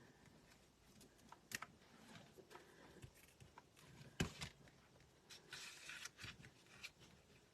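Faint handling of paper and cardstock on a craft table: scattered light taps and clicks, one sharper knock about four seconds in, and a brief paper rustle a little after five seconds.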